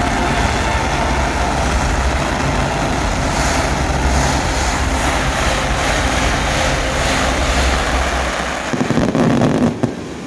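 A fireworks finale barrage: many shells bursting in quick succession, merging into a continuous loud rumble and crackle. It drops away abruptly near the end.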